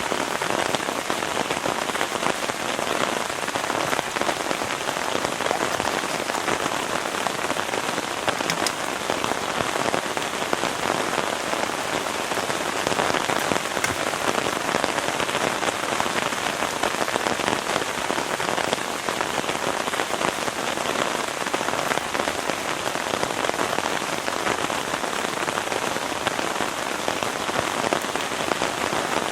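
Heavy rain falling steadily: a dense, even patter of many drops with no let-up.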